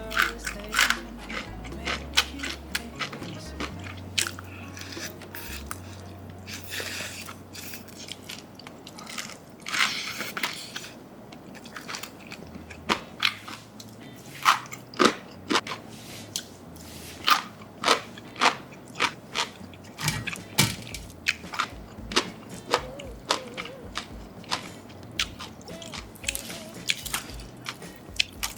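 Close-miked biting and chewing of crispy Korean fried chicken: repeated sharp crackles and crunches of the fried crust, long-fried to be extra crispy, with low background music.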